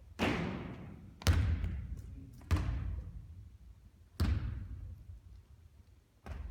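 Basketball impacts: four loud thuds over the first four seconds, each trailing off slowly, and a faint knock near the end.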